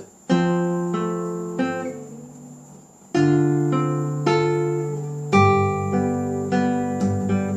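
Classical guitar played fingerstyle in a slow passage: a plucked chord struck about 0.3 s, 3 s and 5.5 s in, each followed by a few single notes ringing over the held bass note.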